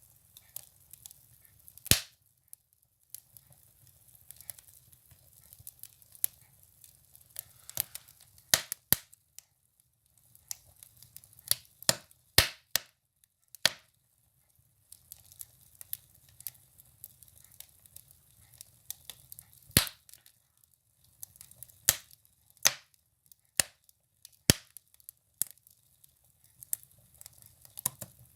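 Firewood burning in a wood stove: a faint steady hiss with irregular sharp crackles and pops, some much louder than others.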